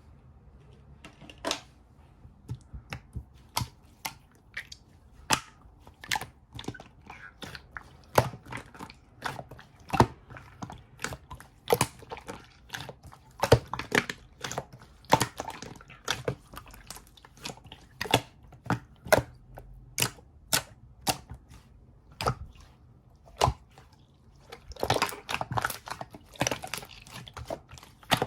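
Slime being pressed and squeezed by hand, making sharp, irregular clicks and pops about one or two a second, with a denser run of crackling near the end.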